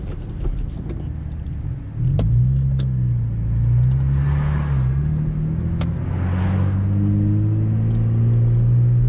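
V6 Camaro engine with its muffler deleted. For the first two seconds it is quieter, with a few sharp pops, then about two seconds in it goes hard onto the throttle and runs loud under load, its note climbing slowly as the car accelerates.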